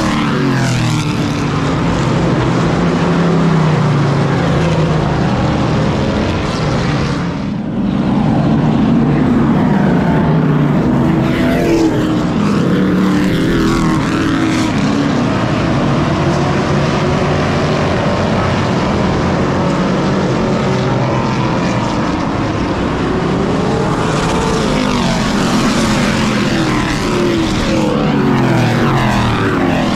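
Race truck engine running hard at racing speed. The pitch climbs and falls in long sweeps every several seconds as the throttle is opened down the straights and lifted into the turns, with a brief dip about seven seconds in.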